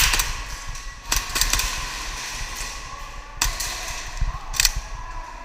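Airsoft gas pistols firing single shots with sharp cracks: a quick pair at the start, then a shot about a second in, a fast double shortly after, and two more spaced shots later on.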